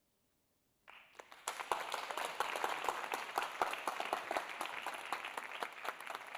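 Audience applauding, starting suddenly about a second in and continuing as dense, steady clapping.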